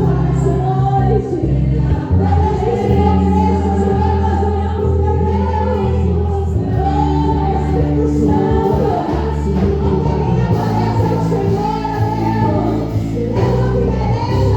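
Gospel worship song: voices singing over a steady instrumental accompaniment with sustained low notes.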